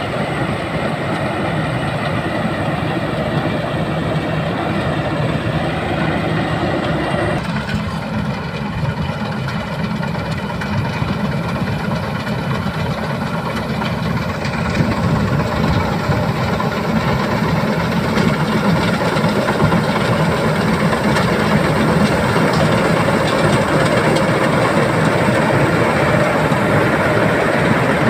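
Rice combine harvester's diesel engine running steadily while it cuts the crop, its note shifting about seven seconds in.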